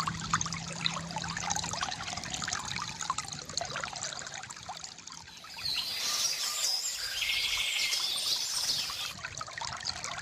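A small stream trickling and splashing steadily. Birds start singing a little over halfway through, including a short buzzy trill.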